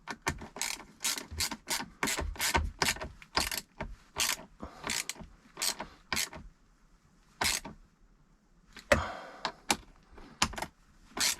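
Hand socket ratchet clicking as it is worked back and forth to tighten a nut on a leisure-battery terminal, a quick run of clicks about three a second that pauses for a couple of seconds past the middle before a few more strokes.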